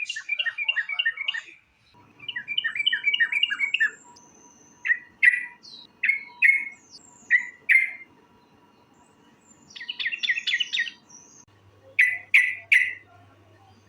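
Yellow-vented bulbul (trucukan) singing: quick runs of chattering notes alternating with single sharp notes about half a second apart, over a faint steady hum.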